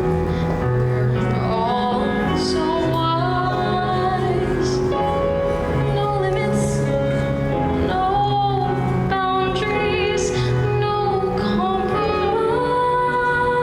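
A solo voice singing a musical-theatre song over sustained instrumental accompaniment.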